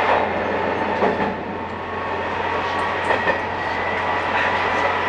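Diesel railcar running along single track, heard from inside the car: a steady engine and rolling noise with a few irregular knocks as the wheels pass over rail joints.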